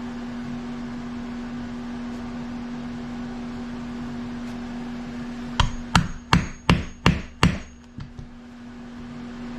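Six quick hammer strikes, about three a second, followed by two lighter knocks, over a steady low hum.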